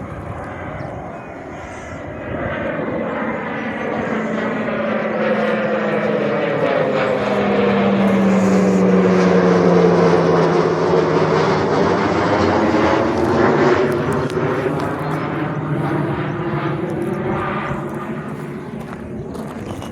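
Military training aircraft flying past, its engine noise building to a peak about halfway through and then fading, with the engine note dropping in pitch as it goes by.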